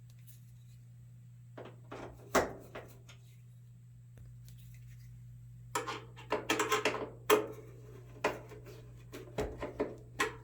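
Scattered knocks and clatter of a clothes dryer's metal panels and parts being handled and fitted back together, busiest about six to seven and a half seconds in, over a steady low hum.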